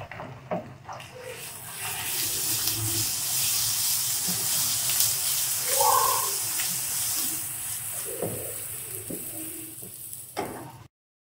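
Ginger-garlic paste and browned onions sizzling in hot oil in a nonstick frying pan as a wooden spatula stirs them, with a few knocks of the spatula against the pan. The sizzle builds about a second in and cuts off suddenly near the end.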